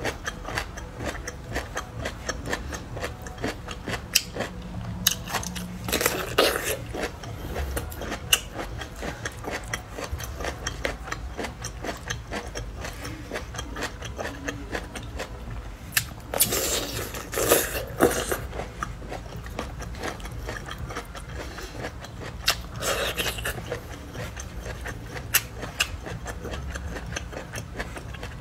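Crunching and chewing of bamboo shoots: a steady run of small wet clicks, with a few longer, louder crisp crunches as bites are taken.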